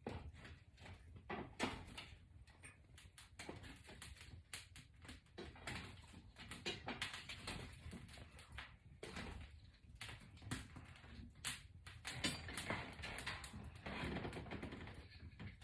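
Box braids being taken down by hand: irregular rustling, scratching and small crackles of the hair as the braids are worked loose.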